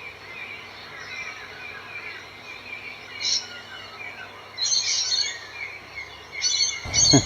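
Small birds chirping and twittering, with a few louder calls in between. A short burst of rustling noise comes right at the end.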